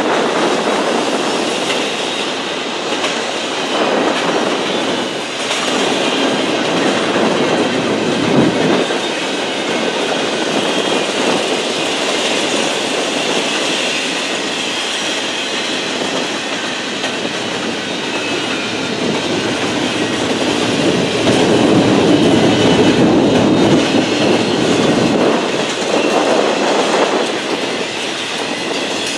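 Double-stack intermodal container train rolling past: a loud, steady rumble and rattle of freight cars and steel wheels on the rails.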